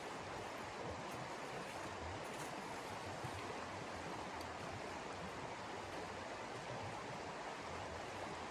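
Steady, even rushing of wind in a snowstorm, with no gusts or pauses.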